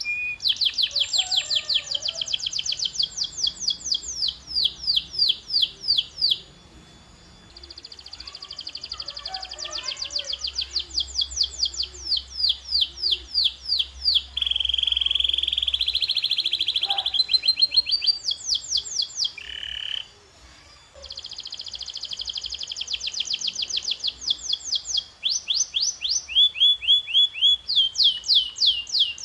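Canary singing: rapid trills of repeated notes and rolling tours, each phrase a few seconds long, changing pitch from phrase to phrase, with brief pauses between phrases.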